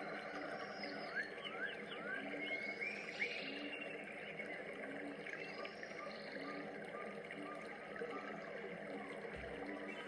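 A dense wild-animal chorus, the sound of a rainforest soundscape: many overlapping calls, with quick rising chirps, rows of short repeated notes and low repeated croaking notes over a steady hiss.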